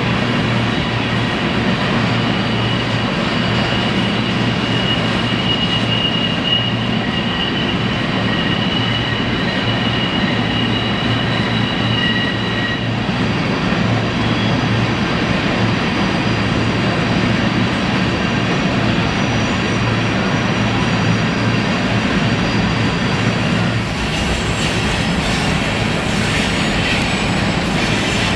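A BNSF grain train rolling past with a steady, heavy rumble of wheels on rail. Through roughly the first half, high wheel squeal rings out as the cars work through a curve.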